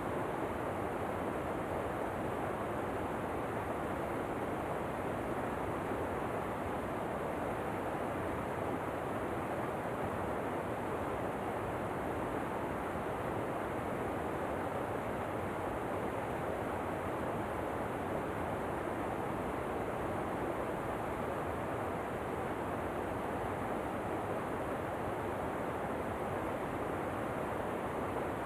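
Steady, unvarying rush of a waterfall as white noise, even throughout with no distinct events.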